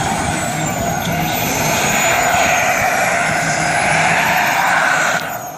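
Radio-controlled model jet in flight: a loud rushing jet noise with a high whine that slowly rises and falls in pitch as the plane moves about. The sound drops off suddenly near the end.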